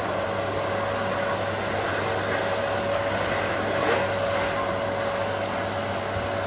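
Vacuum cleaner running steadily, a constant motor whine over an even rush of air.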